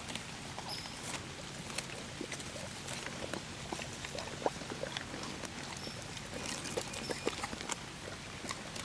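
Outdoor background with many small scattered crackles and clicks over a steady low hum.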